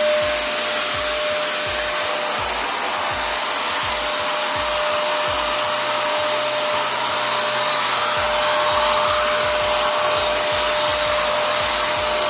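Prestige Typhoon 06 wet-and-dry vacuum cleaner running on dry suction: a steady, loud rushing whine with a constant hum tone through it.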